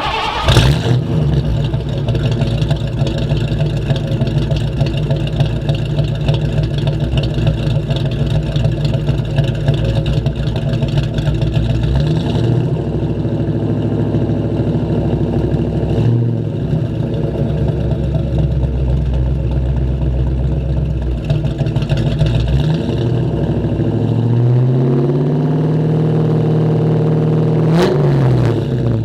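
1990 Ford Mustang's 302 V8 with an E-303 cam, breathing through short-tube headers, a catless X-pipe and hollow SLP LM1 bullet resonators. It fires up at the very start and settles into an idle. It is blipped a few times and then revved and held for a few seconds near the end before dropping back to idle. The exhaust is extremely loud with some rasp, in a tone like a Coyote 5.0.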